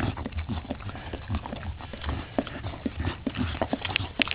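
Mother dog licking her newborn puppy clean: quick, irregular wet licks and mouth smacks, with a cluster of sharper clicks near the end.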